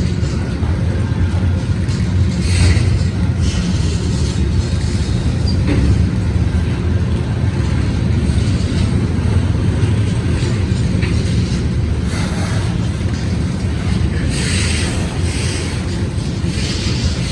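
Freight train rolling past close by: a loud, steady low rumble of the cars going over the rails, with several brief bursts of higher-pitched rattling noise along the way.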